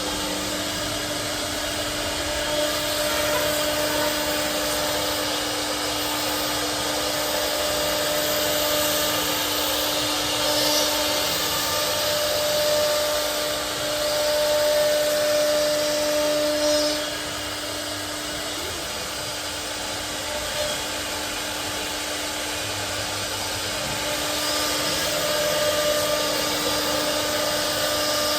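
CNC router spindle running as it cuts door panels: a steady whine over a hiss, easing off for several seconds past the middle and rising again near the end.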